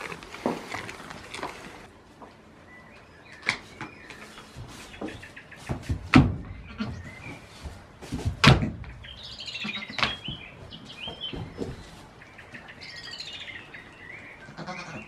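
Songbirds chirping and singing in quick warbling phrases, with several sharp knocks in between, the two loudest about six and eight and a half seconds in.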